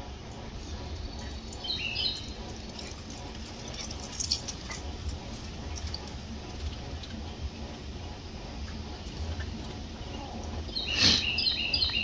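Small bird giving short, sharp chirps: a few about two seconds in, then a louder cluster near the end. A brief click about four seconds in, over a steady low background hum.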